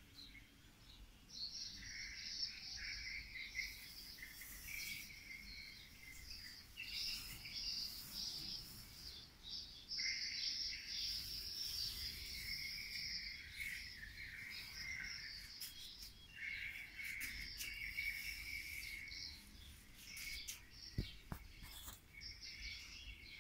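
Small birds chirping and twittering in repeated bursts of high, quick notes, each bout lasting a second or a few, with short gaps between.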